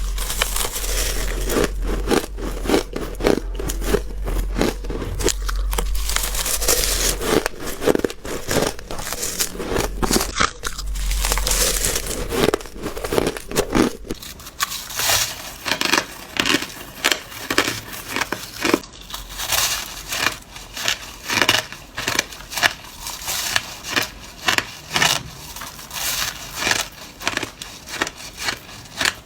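Ice being bitten and chewed right at the microphone: dense crisp crackling crunches. Past the middle they settle into separate chewing crunches, a couple a second.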